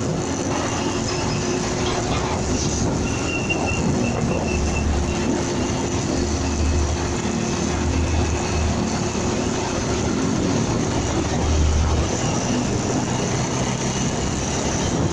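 Motorcycle on the move: a steady mix of engine and road noise with wind on the microphone, and a few low rumbling gusts in the middle.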